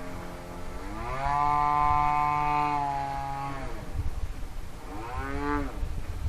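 Syssa 30cc single-cylinder two-stroke engine with an ES pipe on a model Extra 300 in flight. It rises in pitch about a second in, holds high for about two and a half seconds, then drops back. A shorter rise and fall comes near the end.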